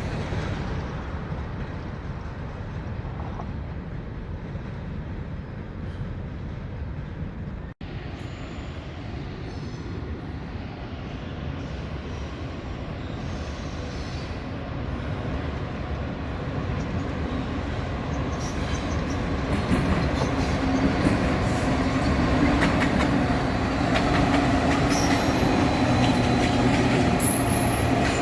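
A train running on the rails: steady wheel and track noise that grows louder from about 18 seconds in, with clicks and brief high wheel squeals near the end. The sound drops out for an instant about 8 seconds in.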